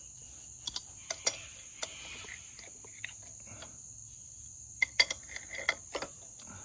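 Scattered metallic clinks and taps of hand tools handled against metal, a cluster of them about five seconds in, over a steady high insect chirring.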